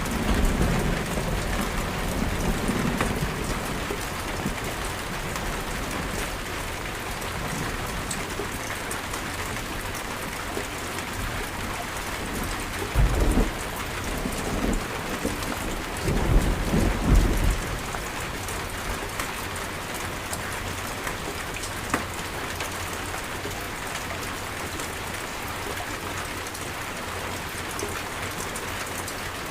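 Steady heavy rain falling, with thunder: a low rumble dying away over the first few seconds, then two short low rumbles about thirteen and sixteen seconds in.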